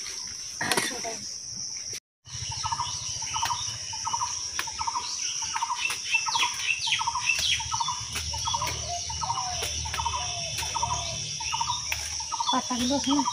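A bird calling a short note over and over, about two a second, over a steady high-pitched insect drone. The sound drops out briefly about two seconds in.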